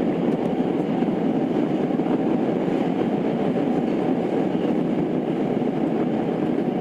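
Tokyo Metro 02 series subway train (IGBT-inverter 7th batch) running between stations, heard inside the car: a steady rumble of wheels on rail with no change in speed.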